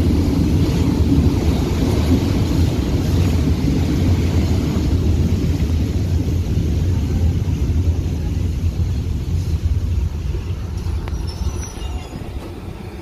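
A train running, a steady low rumble that dies away over the last few seconds.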